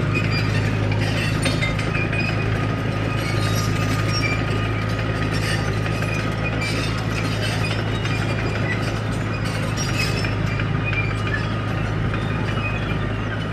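Komatsu D31P crawler bulldozer's diesel engine running steadily, with scattered metallic clinking from its steel tracks.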